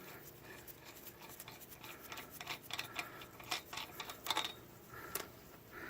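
Lug nut being spun off a wheel stud by hand: faint, irregular metallic clicks and light scraping, with a few sharper ticks in the second half.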